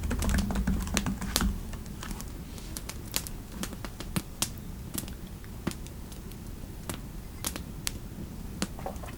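Typing on a computer keyboard: a quick run of keystrokes in the first second and a half, then scattered single key clicks.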